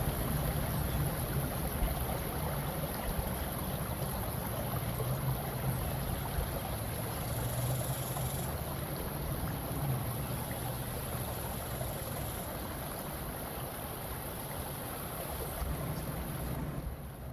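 Steady rushing water, played as a nature-sound ambience, beginning to fade out near the end.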